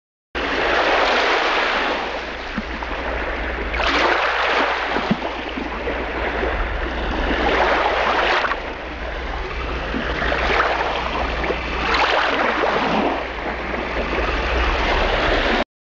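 Sea surf washing in, swelling and easing every three to four seconds over a steady low rumble. It starts and stops abruptly.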